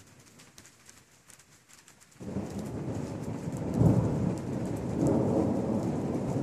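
Thunder rumbling from an approaching thunderstorm. It starts suddenly about two seconds in, swells to its loudest about a second and a half later and keeps rolling, over the light ticking of raindrops.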